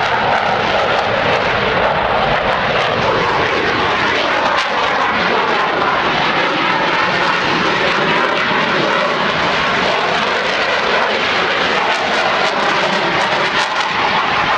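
F/A-18 Hornet's twin jet engines heard loud and steady during a flyby, a dense rushing roar with a tone that slowly shifts in pitch through the middle as the jet passes.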